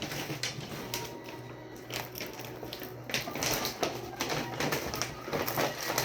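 Irregular clicks, taps and rustling of food and packaging being handled as duck feed is packed.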